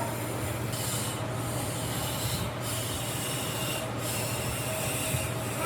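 Wood being sanded: steady abrasive rubbing whose texture shifts about every second and a half, over a low steady hum.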